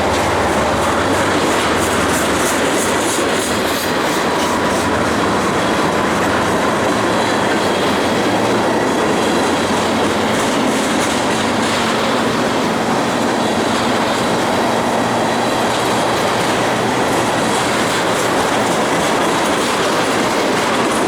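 Freight train of ethanol tank cars rolling past, a loud, steady rumble with the clatter of wheels over the rails and a faint wheel squeal.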